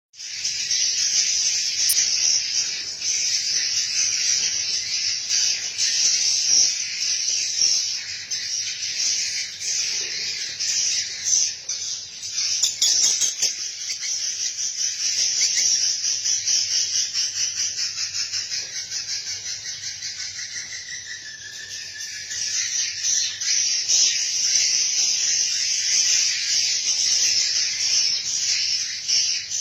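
A dense chorus of swiftlets twittering, many high, rapid chirps overlapping without a break.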